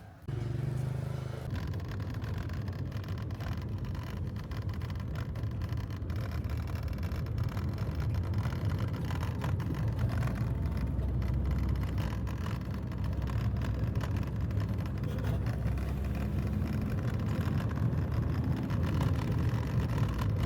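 Steady low rumble of a vehicle under way, engine and road or water noise, cutting in abruptly just at the start and holding with small swells.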